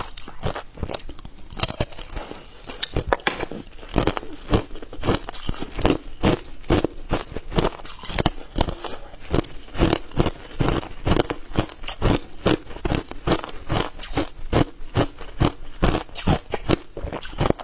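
Hard ice cubes being bitten and chewed, a steady run of sharp crunches at about two or three a second.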